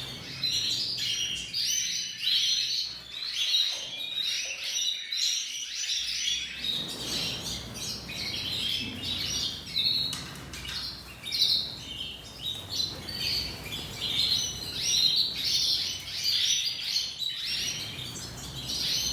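Canary singing a continuous song of rapid chirps and trills.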